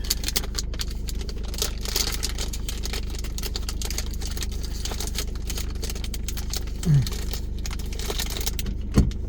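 Car cabin while driving: a steady low engine and road hum with frequent small rattling clicks. A brief low falling sound comes about seven seconds in and a knock near the end.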